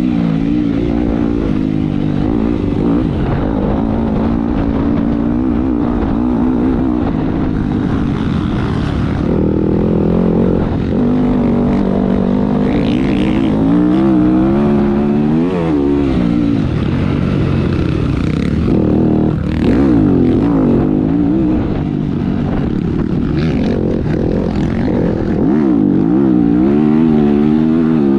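Motocross bike engine running hard, its pitch rising and falling over and over as the throttle is worked through the gears.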